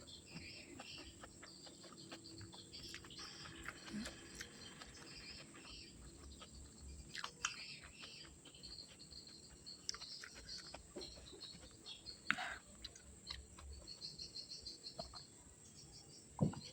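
A person eating: soft chewing with a few sharp crunches or clicks, over steady high chirping of birds and insects.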